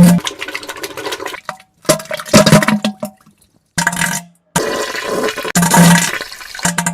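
Wet diarrhea and fart sound effects: about six short, loud bursts of gurgling, splattering noise, some carrying a low buzzing tone, each cut off abruptly into silence as if spliced together.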